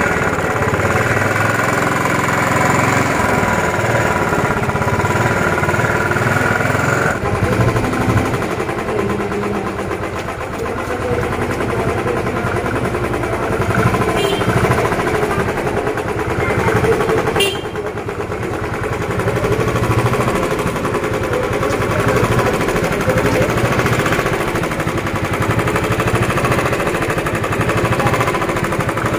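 Royal Enfield Bullet 350's single-cylinder engine being revved hard, running loud and continuously. Its loudness drops sharply about seven seconds in and again about seventeen seconds in, then builds back up.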